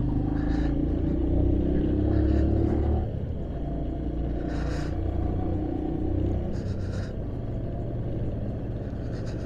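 Motorcycle engine running while riding, its note climbing slightly and then easing off about three seconds in, over a low rumble.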